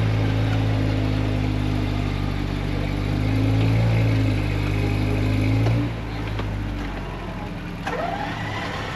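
Off-road 4x4's engine running steadily under load, then easing off about six seconds in.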